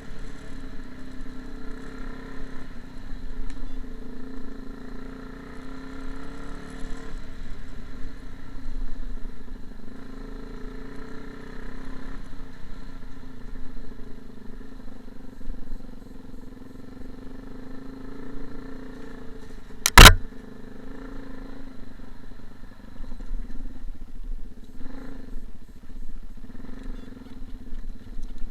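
A steady droning buzz that wavers slightly in pitch, broken about twenty seconds in by one very loud, sharp crack.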